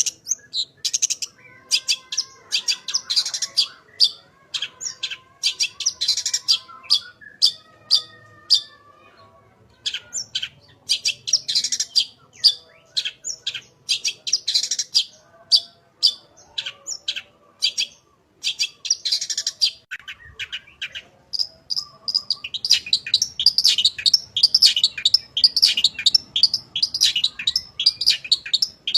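Long-tailed shrike (cendet) in full song: rapid runs of short, sharp high chattering notes in phrases, its song filled with borrowed calls of other birds. The song breaks off briefly twice and runs densest near the end.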